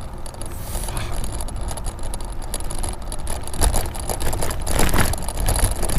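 Bicycle riding over a rough surface: steady wind and tyre rumble, with knocks and rattles from bumps, louder in the second half. The BBSHD mid-drive motor and chain make no sound that stands out.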